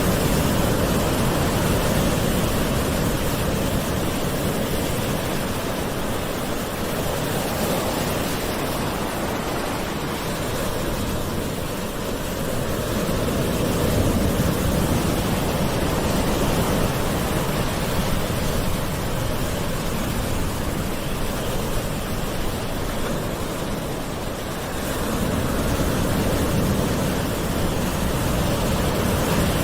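Gentle ocean waves washing continuously, a steady surf hiss that swells and eases slowly, with louder surges about halfway through and again near the end.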